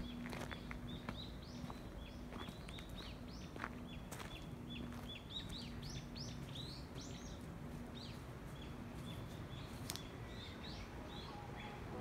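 Small birds chirping, a fast string of short, upward-hooking chirps, with a few faint footsteps on gravel in the first half.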